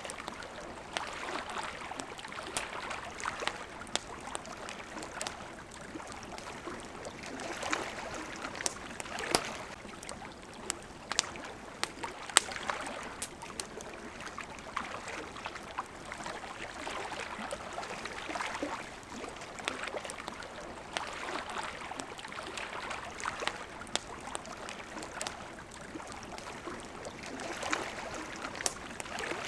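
Wood campfire crackling with frequent sharp pops, over water lapping in gentle swells that come and go every couple of seconds.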